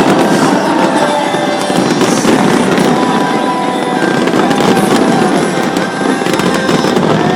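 Fireworks display going off continuously, a dense crackling barrage of many small bangs.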